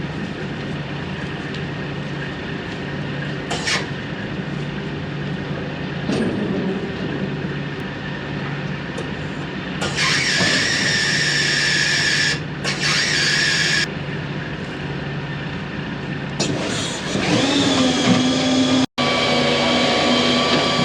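Semi truck diesel engine running steadily, with two loud bursts of air hissing in the middle. Near the end the sound cuts to a different steady machine drone.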